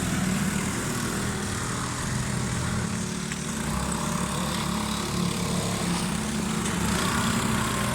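Small bumper boat motors running steadily, their hum shifting in pitch now and then as the boats maneuver.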